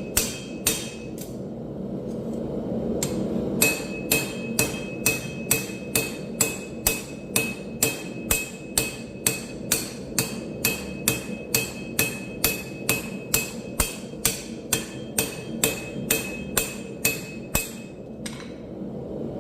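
Blacksmith's hammer striking railroad scrap steel on an anvil while forging a blade: a steady run of about two blows a second, each with a bright ring. It follows a short pause near the start, over a steady low hum.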